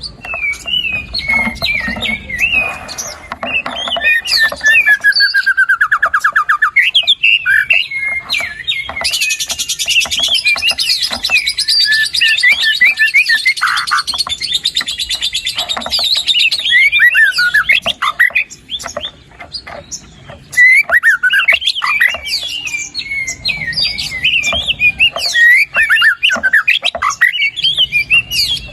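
White-rumped shama singing a long, varied song of quick whistled phrases and chirps, with a dense, fast rattling trill from about nine to sixteen seconds in.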